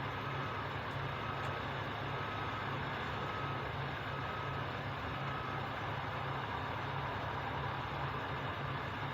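Truck engine running steadily with a low hum. Over it, a backup alarm beeps six times, about once a second, and stops a little past halfway through.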